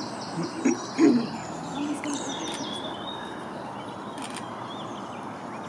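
Small birds chirping and twittering over a steady background hiss, with two short, louder low sounds about a second in.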